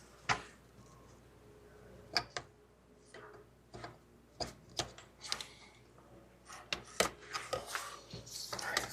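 Irregular sharp clicks and light knocks from hand work on a car's wiring harness, with connectors, plastic clips and tools being handled, and a rustle near the end.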